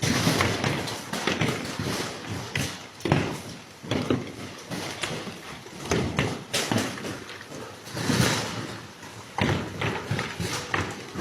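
Hail coming down hard: a dense hiss of falling hailstones with irregular thuds and taps as the stones strike.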